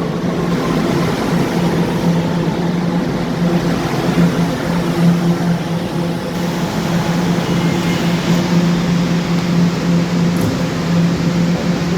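New York City subway train running: a steady mechanical hum with a constant low tone over an even rumble.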